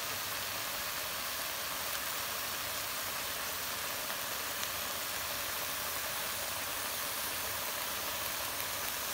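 Kale and salted fish sizzling steadily as they stir-fry in a hot wok, with a few faint ticks.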